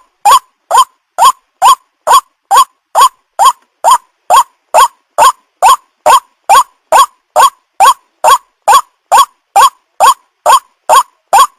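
White-breasted waterhen (ruak-ruak) calling loudly in a steady, unbroken series, a little over two short notes a second. Each note bends upward in pitch.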